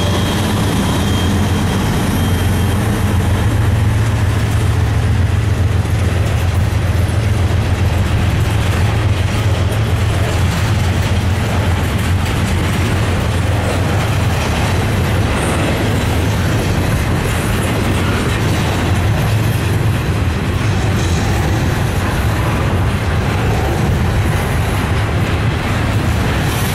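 Norfolk Southern double-stack container train rolling past at close range: a steady low rumble of steel wheels on rail. A thin high whine fades out in the first few seconds as the last diesel locomotive moves off.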